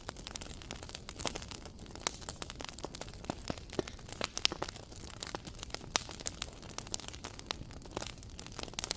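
Wood fire crackling: irregular sharp pops and snaps over a low steady rumble of flames, with a louder pop about six seconds in.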